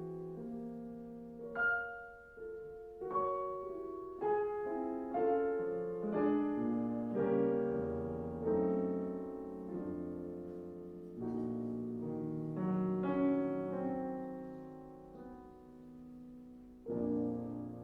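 Solo piano playing a slow classical piece in quiet, spaced chords, each left to ring and fade. Near the end one chord is held and dies away at length before the next is struck.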